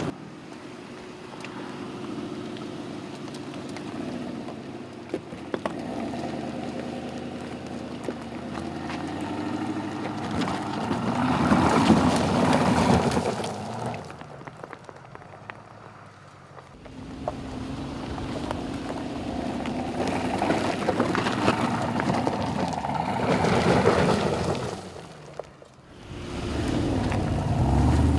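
Aston Martin DBX's 4-litre twin-turbocharged V8 running under way, its note rising and falling with the throttle. It swells to loud peaks about twelve and twenty-four seconds in and drops away twice.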